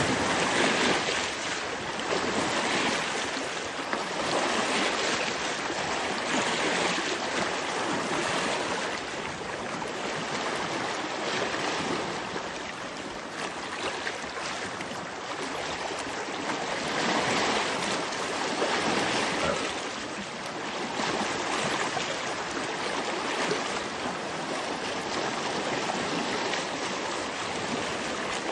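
Lake water washing and lapping, an even rushing that swells and eases about every two seconds.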